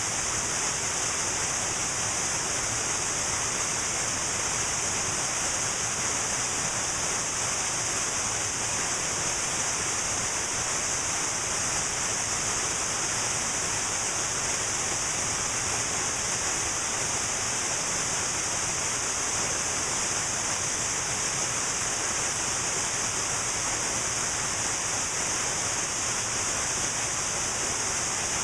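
Cascading mountain waterfall rushing steadily, a constant hiss of falling water with no breaks.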